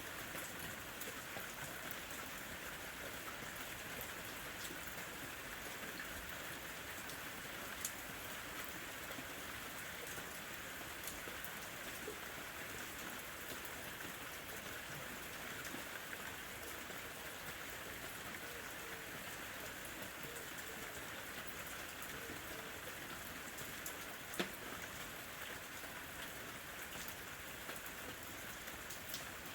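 Gentle summer rain falling steadily, with scattered drop ticks and two sharper drips about 8 and 24 seconds in.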